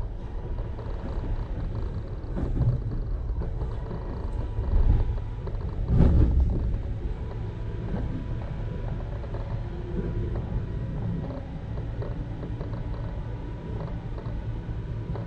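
BART train car's interior noise while running: a steady low rumble with faint thin whining tones, and a few louder knocks in the first half.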